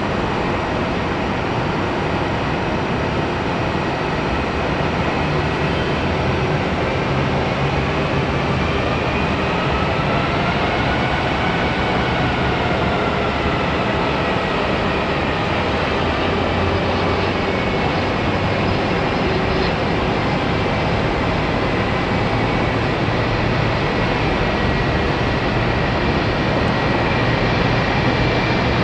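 Jet airliner engines running: a steady rush of noise carrying a faint whine that bends up and back down about halfway through, growing a little louder near the end.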